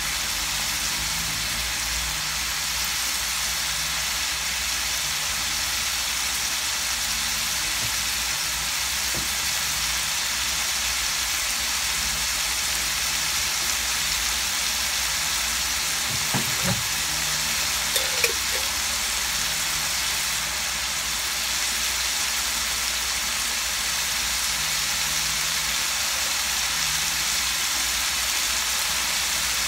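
Chicken pieces frying in oil in a wok, a steady sizzle with a few small pops just past the middle.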